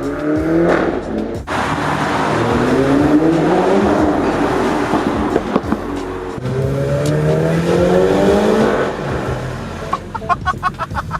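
Mini Cooper S's 2.0-litre turbocharged four-cylinder running through a Remus cat-back exhaust, accelerating hard through the gears with the engine note rising three times. Near the end comes a quick string of exhaust pops and crackles on the overrun.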